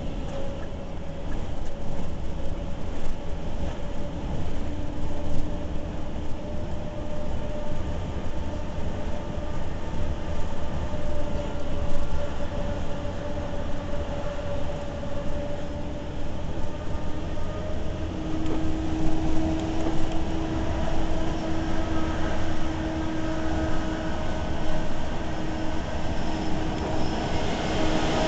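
Scania truck running, a steady low rumble with a droning hum that grows stronger about two-thirds of the way through.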